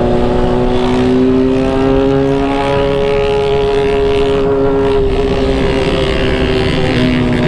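Motorcycle engine running at a steady cruise, its pitch rising gently and then easing off toward the end, over constant wind rush on the camera microphone.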